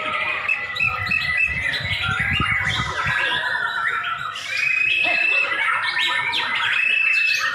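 White-rumped shama (murai batu) singing a rapid, varied song, with two long level whistles in the second half.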